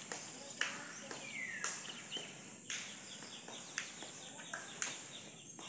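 Birds chirping in short, sharp calls with falling pitch, roughly one a second, over a steady high-pitched hiss.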